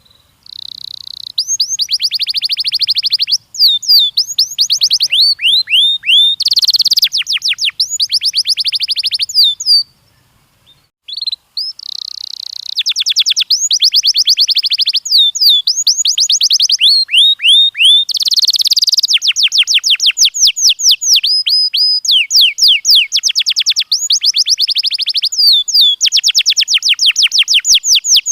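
Domestic canary singing: long phrases of rapid trills and rolling notes, with a brief pause about ten seconds in before the song resumes.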